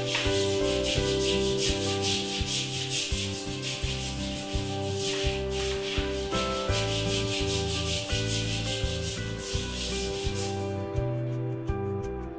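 Rapid, rhythmic scrubbing strokes, a brush or scrubber working back and forth on a hard surface, stopping abruptly about eleven seconds in. Soft background music plays under it.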